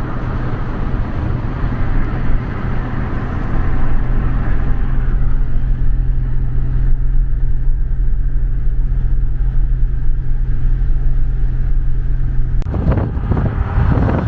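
Pickup truck towing a travel trailer at highway speed: a steady low engine drone under road and tyre noise. Near the end it changes suddenly to a rougher, gusting noise.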